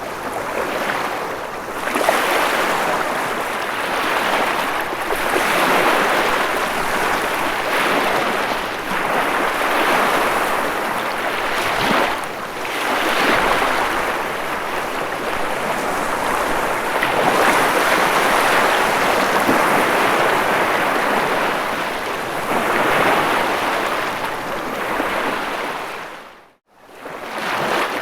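Ocean surf washing in, a steady rush of water that swells and eases every few seconds. Near the end the sound fades out to near silence for a moment, then comes back.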